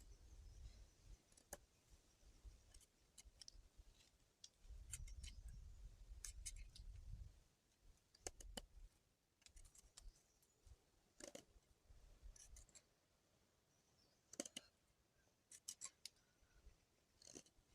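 Faint handling sounds: irregular sharp clicks and snips, with low rumbles in the first half.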